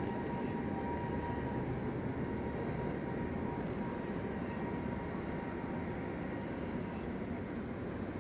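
Steady low rumble of a distant train along the line, easing off slightly.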